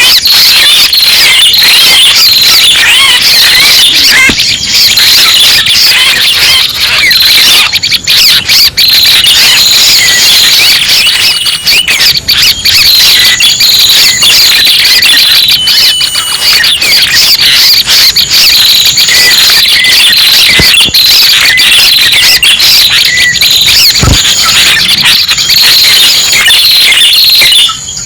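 Loud, unbroken chattering of many overlapping high-pitched chirps and short whistles from red-headed prenjak calls, played as a lure recording for trapping birds. The sound drops out briefly near the end.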